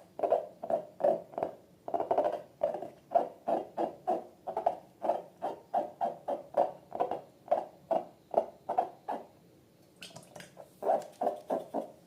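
Slime-filled balloons being squeezed by hand, making a rapid series of short squeaky, squelching sounds, about three a second, with a brief pause near the end.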